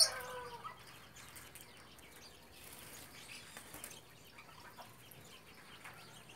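Faint, scattered chirps from caged birds in an aviary holding cockatiels, over low outdoor background noise.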